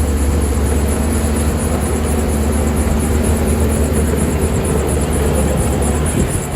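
Diesel engine of heavy earth-moving machinery running steadily with a deep low drone.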